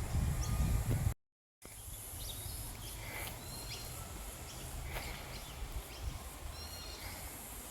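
Birds chirping in short high calls over a steady low rumble, cut by a brief dead-silent gap about a second in.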